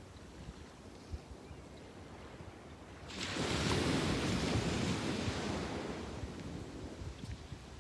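Sea waves on a beach: a low, quiet wash of surf, then about three seconds in a wave breaks and its hissing wash spreads up the shore and slowly fades.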